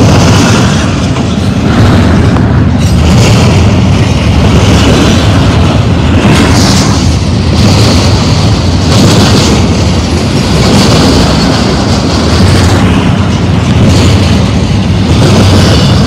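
Double-stack intermodal train's well cars rolling past close by: a loud, steady deep rumble of steel wheels on rail, with a rise and fall in the higher clatter every second or two as trucks go by.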